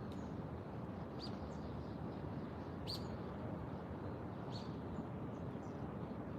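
A few short, high bird chirps, the clearest about three seconds in, over a steady low rumble of background noise.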